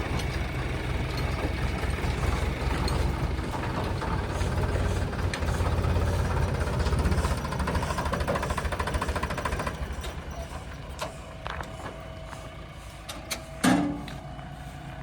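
Diesel engine running under load, rising for a few seconds and then easing off about ten seconds in. A short sharp clank or bang comes near the end.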